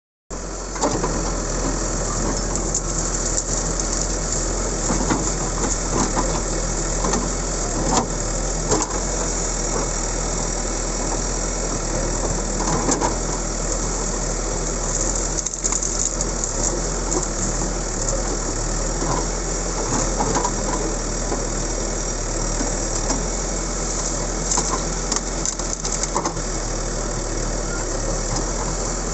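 JCB digger's diesel engine running steadily, with repeated knocks and rattles from the machine working.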